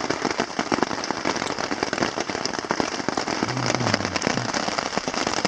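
Heavy, steady rain pattering on a camp tarp overhead: a dense crackle of drops striking the fabric.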